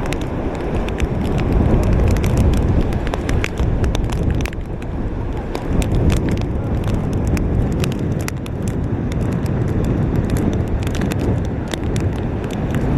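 Hurricane-force wind buffeting the microphone: a steady, loud low rumble with many sharp ticks scattered through it.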